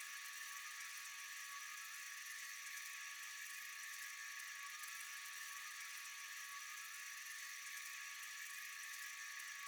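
Steady night insect chorus: a dense, unbroken high-pitched shrilling with a few constant tones running through it.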